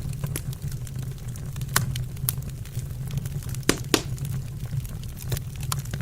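Wood burning in a fireplace, crackling with irregular sharp pops over a steady low rumble; the loudest pops come about two seconds in and again near four seconds.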